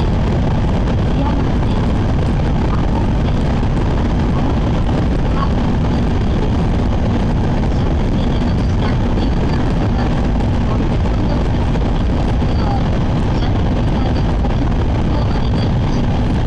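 Cabin noise of a Sakura Shinkansen train running at speed: a steady, loud rumble of wheels and air with a constant low hum.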